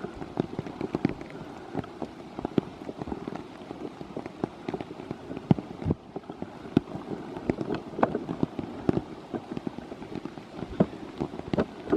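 Rain falling, with many irregular sharp taps of drops striking close by over a steady patter; it cuts off suddenly at the end.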